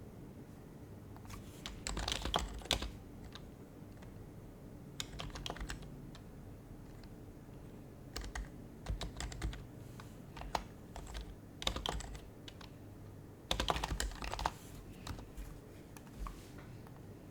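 Typing on an HHKB Professional HYBRID Type-S keyboard with its quiet Topre-style keys, coming in short bursts of rapid keystrokes with pauses between them; the densest flurry is about two thirds of the way through.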